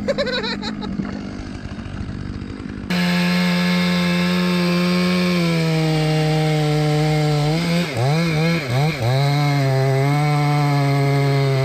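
Chainsaw running quietly, then opened to full throttle about three seconds in and held there. Its pitch dips a few times about two-thirds of the way through as it bogs down in the cut.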